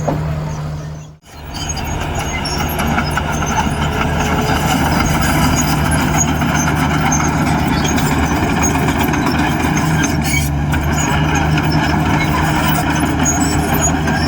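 Heavy diesel engine of earthmoving machinery running steadily under load, with metallic clatter over it. The sound dips out abruptly about a second in, then resumes.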